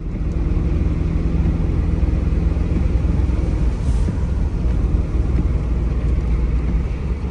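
Motor vehicle running: a steady low rumble with a few steady engine tones underneath.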